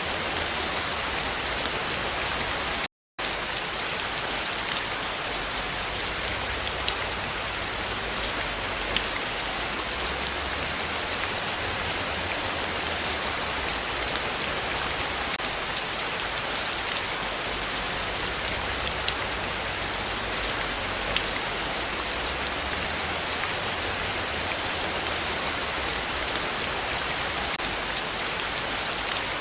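Heavy rain falling steadily, a dense even hiss with scattered drop ticks. It cuts out completely for a split second about three seconds in.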